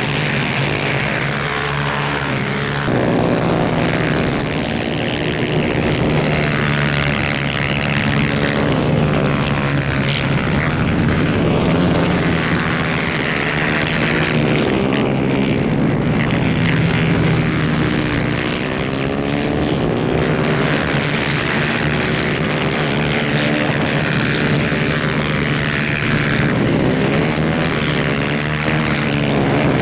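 250cc two-stroke superkart engines racing, a continuous loud buzz whose pitch keeps rising and falling as the karts accelerate and brake, with several engines overlapping.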